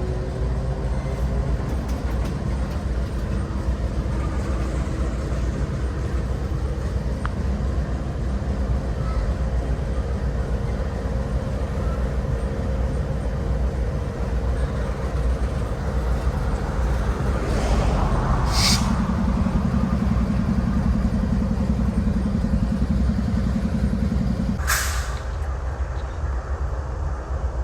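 Diesel freight locomotive idling with a steady low drone. About 18 seconds in, a louder steady hum sets in for about six seconds, starting and ending with a short sharp hiss of air.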